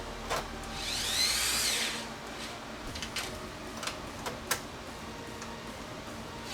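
A small handheld power tool's motor whirs up and winds down once, about a second in, lasting roughly a second, its whine rising and then falling in pitch. A few sharp clicks follow over the next few seconds.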